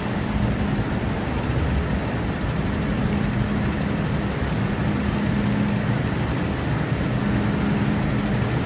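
Steady rumble of an MTR Kwun Tong Line train running through an underground station, with a low hum that comes and goes.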